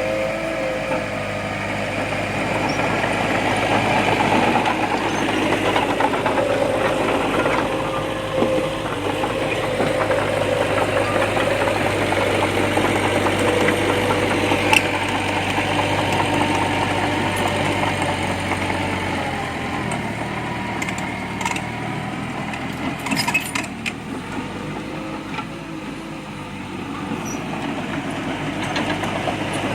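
Diesel engine of heavy earthmoving machinery running steadily, with a wavering whine over a low hum. A few short clanks come about halfway through and again later.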